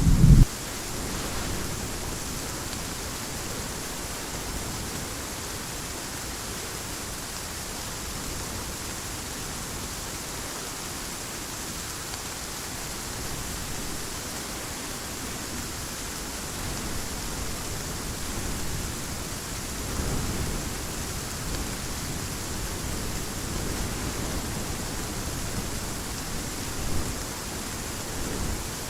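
Steady heavy rain with an even hiss. A loud low thunder rumble cuts off abruptly about half a second in, and faint low rumbles of thunder swell around the middle.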